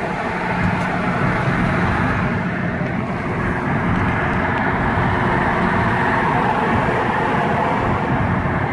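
Cabin sound of a Mk5 VW GTI cruising at about 45 mph: its turbocharged 2.0-litre four-cylinder running steadily at light throttle, off boost, mixed with road and tyre noise. The engine is running on freshly fitted Audi R8 coil packs and NGK spark plugs, with no misfire.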